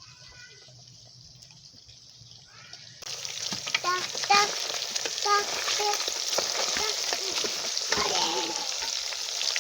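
Hot oil sizzling steadily in a frying pan. It starts abruptly about three seconds in, after a quiet start.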